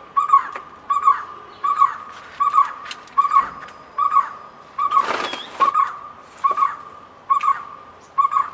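A bird repeating one short, falling call note steadily, about every three-quarters of a second. A brief rustling burst about five seconds in.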